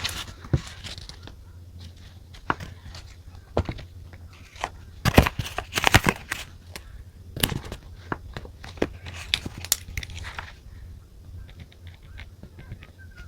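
Close-up desk sounds of journaling: paper and stationery rustling and crinkling, with sharp taps and clicks. They are loudest about halfway through and turn to light quick ticks near the end.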